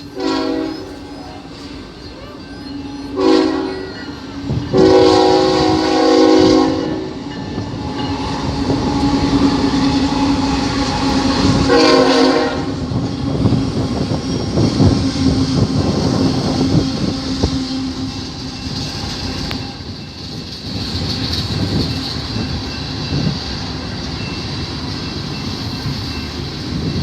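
Union Pacific freight train passing: the diesel locomotive's multi-chime air horn sounds several blasts in the first half, a short one, then a long one of about two seconds, then another short one, over the rumble of the train. After that the cars roll by steadily, their wheels clicking over the rail joints.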